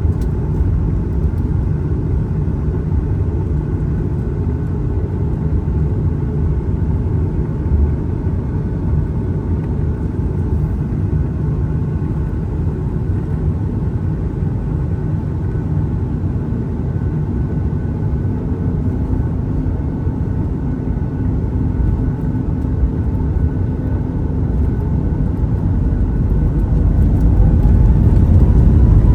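Jet airliner cabin noise: a steady low rumble from the engines and airframe, typical of taxiing. Near the end the engine whine rises in pitch and grows louder as the engines spool up.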